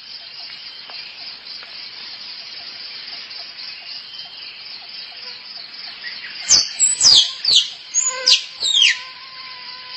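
A tree squirrel gives a quick run of about five loud, sharp chirps, each sweeping down in pitch, a little over halfway in: a squirrel's mating call. Behind it is a steady high buzzing chorus of insects.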